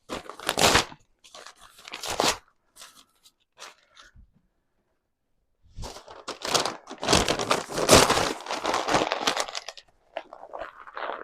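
Crunching and crumpling of dry fire-lighting material, wooden matches and kindling, being handled and packed into a woodstove to lay a fire. It comes in short bursts, goes nearly quiet for a couple of seconds in the middle, then runs on in a longer stretch.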